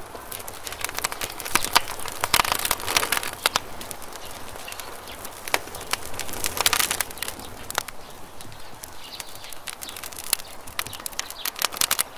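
Wood campfire crackling: sharp pops and snaps over a soft hiss, coming in dense clusters a couple of seconds in, around the middle and just before the end.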